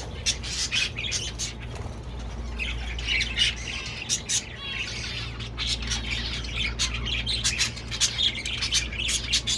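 A flock of caged birds squawking and chirping, with many short, sharp calls throughout.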